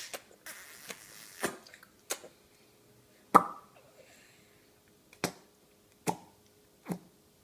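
A series of short, sharp taps and smacks at irregular intervals, about seven of them, the loudest about three and a half seconds in, with a brief soft hiss near the start.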